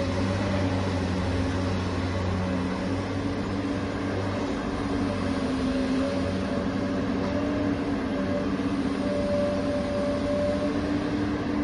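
Electric drive motors and gears of a toy RC excavator running steadily as it crawls forward on its tracks. The pitch shifts slightly a few seconds in.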